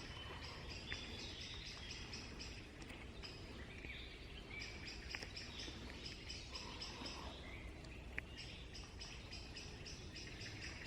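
Faint woodland ambience: birds singing, with a high, rapid chirping repeated about four times a second through most of it.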